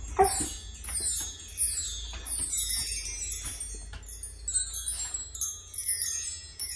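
Jingling bells and chimes in a music-like pattern of quick falling runs repeating about twice a second, over a low steady hum.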